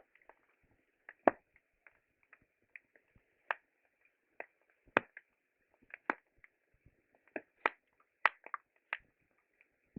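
Wood campfire crackling, with irregular sharp pops, the loudest about a second in, at about five seconds and near the end.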